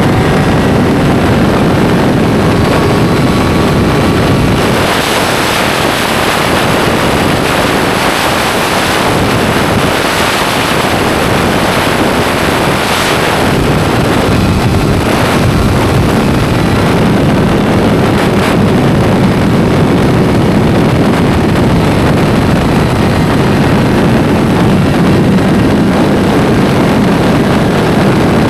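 Motorcycle engine running at speed under heavy wind rushing over the microphone, a loud, steady roar with no breaks.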